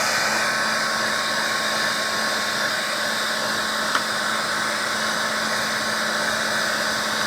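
Heat gun blowing steadily, a rush of air with a faint even motor hum, heating a kydex holster to soften it for reshaping.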